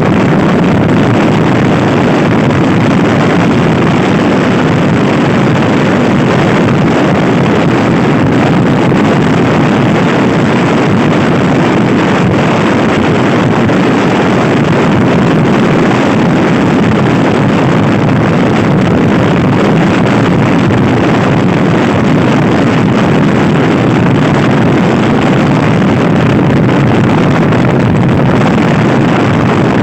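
Loud, steady wind roar on the microphone of a camera riding on a Honda Scoopy-i scooter at speed, covering most other sound.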